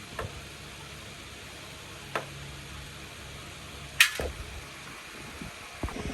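A few sharp clicks and knocks over a steady low hum, the loudest a sharp click about four seconds in.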